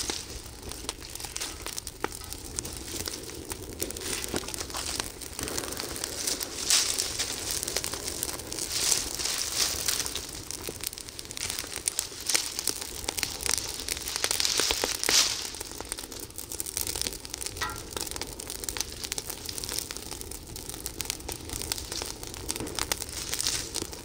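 Dry leaves and twigs burning fast with tall flames, crackling and hissing in dense rapid pops, swelling louder in waves several times.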